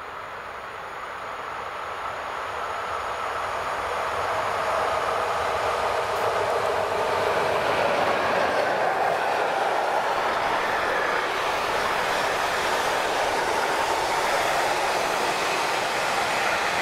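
EU07 electric locomotive hauling a container freight train approaches and passes at speed. The noise grows over the first four or five seconds, then holds steady as the loaded container flat wagons roll by on the rails.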